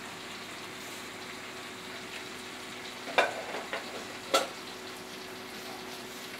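Bread cubes frying in a kadai of oily tomato-onion masala, a steady sizzle. A metal slotted spoon knocks sharply against the pan twice, a little after three and four seconds in, with lighter clinks between.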